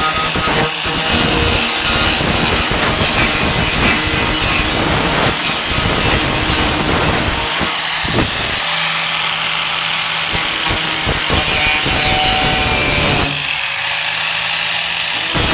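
A 4.5-inch angle grinder running continuously with its abrasive wheel against the truck's sheet-metal wheel arch. It gives a harsh, scratchy grinding noise, and in the second half a steadier hum as the load eases.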